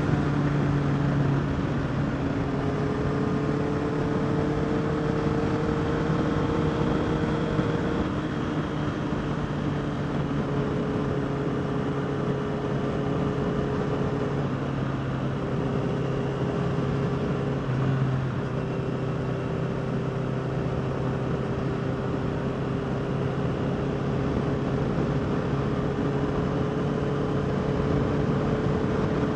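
Honda CBR650R's inline-four engine running under way at a steady cruise, its note dipping and shifting in pitch a few times as the throttle changes, over a steady rushing noise.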